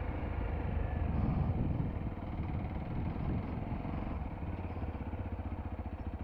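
Motorcycle engine running at low speed, then idling with an even firing beat.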